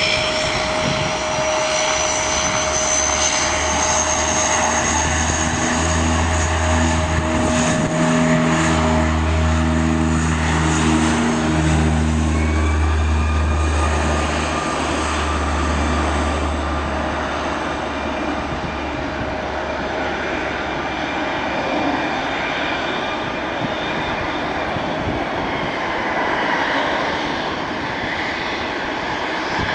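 de Havilland Dash 8 twin turboprop taking off, its engines and propellers running loud and steady. A slow, low throb pulses through the sound from about five to sixteen seconds in, then it eases slightly as the tones drift lower.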